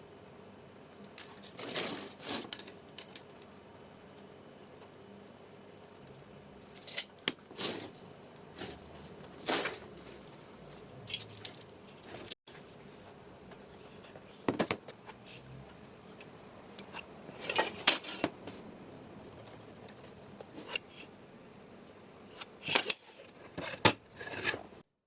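Intermittent workbench handling sounds: short scrapes, rustles and clicks, a few at a time with quiet gaps between them.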